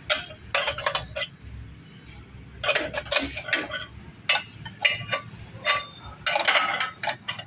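Hand tools clinking and knocking against the metal clutch release lever and gearbox parts, in irregular clusters of sharp metallic clinks.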